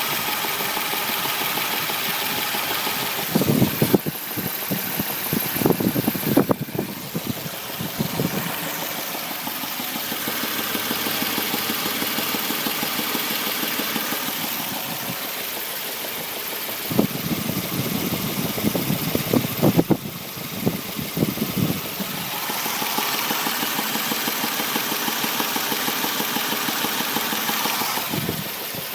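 Warmed-up Suzuki H25A 2.5-litre V6 engine running with a knock that persists even on thicker 10W40 oil. The knock is louder and rattlier in two stretches, a few seconds in and again about two-thirds of the way through.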